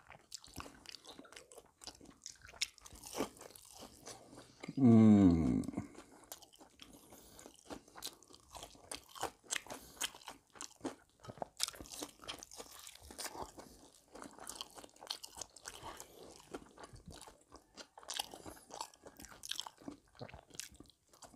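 Crispy fried chicken crunching in small, irregular snaps as it is bitten and chewed, with one brief voice sound falling in pitch about five seconds in.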